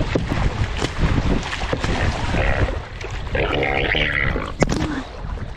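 Wind rumbling on the microphone over water splashing and knocks around a kayak, with one sharp knock about four and a half seconds in.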